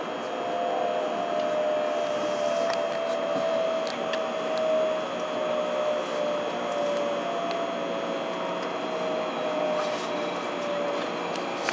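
Running noise of a Hikari Rail Star Shinkansen train (700 series), with a motor whine falling slowly in pitch as the train slows.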